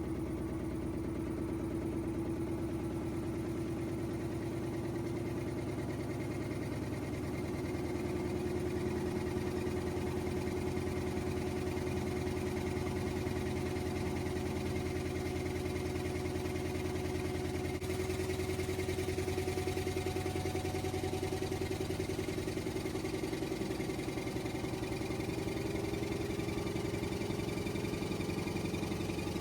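LG washing machine spinning its drum in a steady, continuous run, with a motor whine that climbs slowly in pitch as the spin speeds up.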